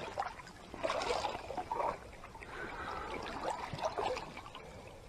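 Stream water sloshing and splashing in irregular bursts around a northern pike held in the current by hand to revive it, with the stream's steady flow underneath.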